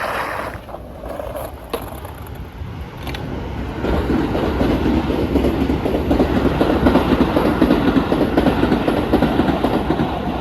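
A train passing; its noise builds about four seconds in and stays loud until near the end.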